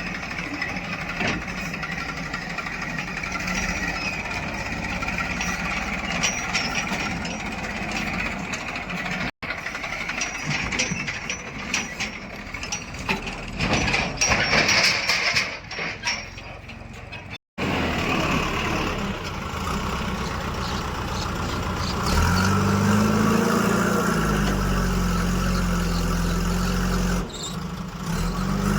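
Heavy diesel machinery engines running, broken by two abrupt cuts. About three-quarters of the way through, a louder engine comes in close, its pitch rising and falling as it labours under load.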